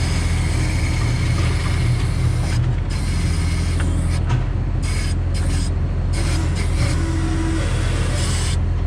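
Feller buncher's diesel engine running steadily, with a constant low drone and a hiss over it, while a blown hydraulic line is hunted down: the leak is thought to be on the head's tilt circuit.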